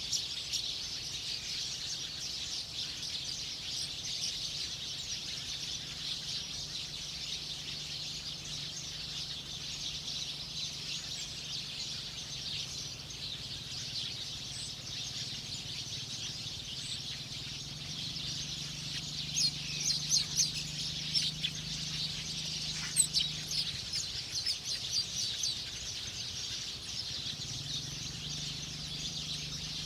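Small songbird chirping, with a run of quick, high chirps in the middle, over a steady high-pitched background hiss and a faint low hum.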